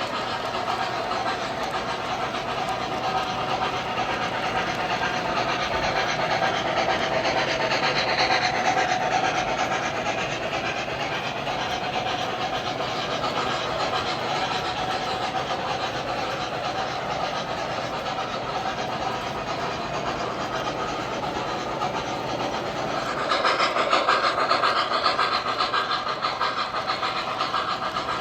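O gauge model train running on three-rail track: steady motor hum and wheels clicking over the rail joints. It gets louder about three-quarters of the way through, as if passing closer.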